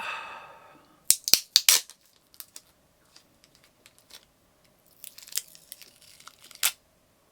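Close-up handling sounds: a short ringing note that dies away, then a quick cluster of sharp clicks about a second in, and crinkling with a final click near the end.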